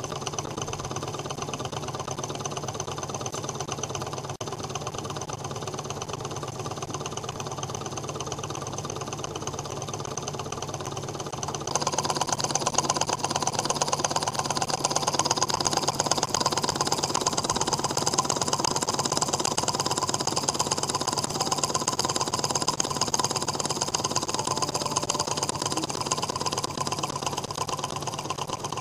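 Small homemade Ross-yoke Stirling engine running with a fast, steady mechanical clatter. About twelve seconds in it abruptly gets louder and brighter, then keeps running evenly.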